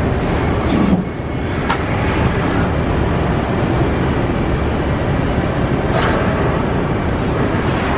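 Haas SL-40 CNC lathe running, a steady loud mechanical noise with a few sharp clicks: one about a second in, another shortly after, and one about six seconds in.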